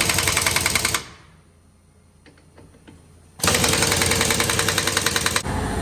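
Impact wrench hammering lug nuts tight on a dump truck wheel in two bursts of rapid rattling, the first stopping about a second in and the second running from about halfway through to near the end. The lug nuts are being run down in a cross pattern.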